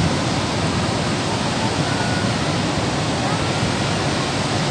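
Waterfall: a steady, loud rush of falling water, with faint voices in the background.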